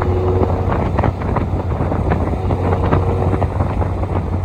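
Classic Ferrari's engine running at a steady cruise on the road, a constant low drone mixed with road and wind noise.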